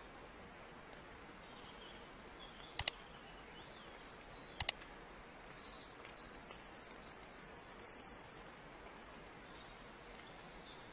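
Bird chirping: a run of quick high calls between about six and eight seconds in, over a steady low hiss. Two short double clicks come earlier, near three and near five seconds in.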